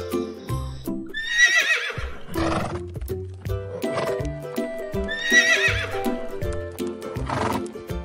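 A horse neighing twice, about four seconds apart, each a wavering whinny, over children's background music.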